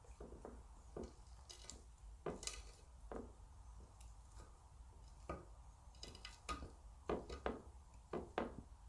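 Eating utensils clicking and tapping against dishes at a meal table: irregular light knocks, a few sharper ones about two seconds in and near the end.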